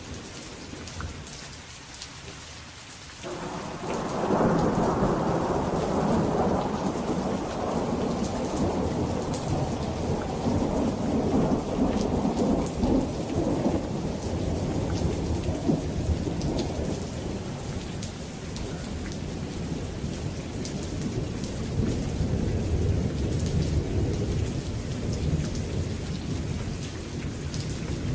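Steady rain falling with scattered drop ticks; about three seconds in a roll of thunder breaks in suddenly and rumbles on, fading and swelling again, for the rest of the stretch.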